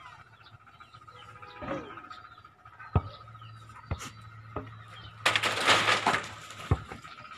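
Birds chirping, with a few sharp knocks and, about five seconds in, a noisy burst lasting about a second.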